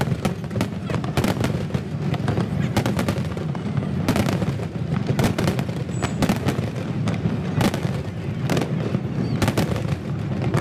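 Fireworks display: an irregular run of shell bursts, a few bangs a second, over a continuous low rumble.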